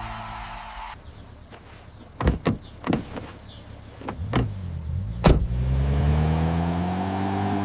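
Several sharp thumps, then a car engine rising steadily in pitch as it revs up and accelerates.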